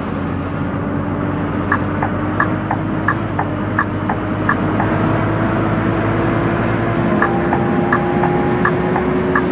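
Scania K230UB city bus's five-cylinder diesel engine pulling steadily in gear, its pitch slowly rising as the bus gathers speed. A regular ticking about three times a second runs over it from about two seconds in, and a short steady tone sounds near the end.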